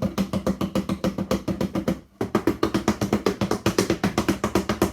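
Large empty cardboard box drummed rapidly with the sides of two wooden spoons, about eight or nine strikes a second in a continuous roll with a short break about two seconds in: a homemade thunder sound effect.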